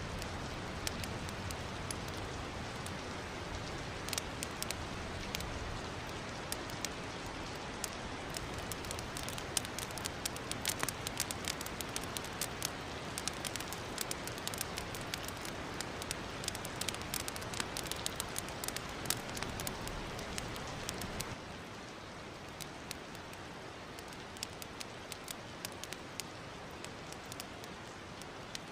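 Wood fire crackling in a fireplace: a steady hiss with frequent sharp pops and snaps throughout, the hiss dropping a little about two-thirds of the way through.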